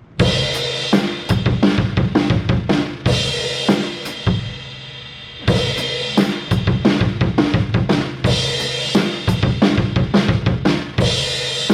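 Acoustic drum kit played live: a fast fill of kick drum, snare and cymbal strikes, played once, played again from about five and a half seconds in, and starting a third time near the end. The same short passage is repeated, with cymbals ringing in the gaps between runs.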